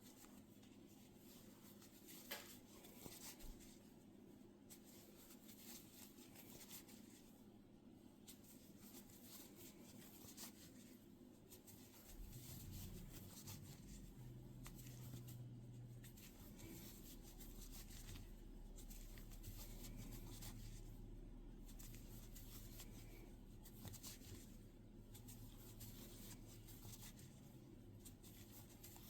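Faint rustle of yarn and small clicks of a crochet hook working single crochet stitches. A low steady hum comes in a little before halfway through.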